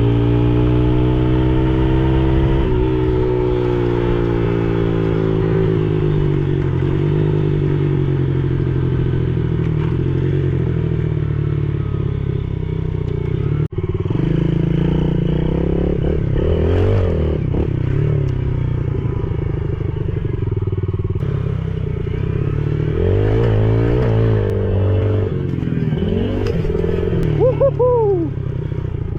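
Yamaha TTR110E pit bike's small single-cylinder four-stroke engine running under riding, its pitch rising and falling again and again as the throttle is opened and closed.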